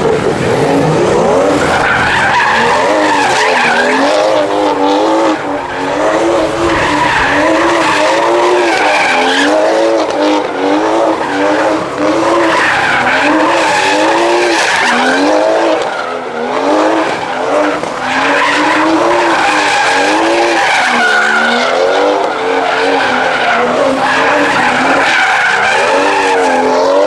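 A car drifting, its engine revs rising and falling over and over, roughly once a second, with tyres skidding and squealing throughout.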